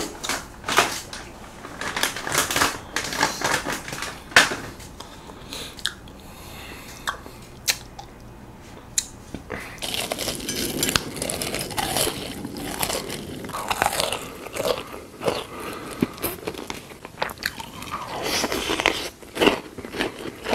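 Close-miked eating sounds: chewing and crunchy bites, heard as irregular sharp clicks and short bursts.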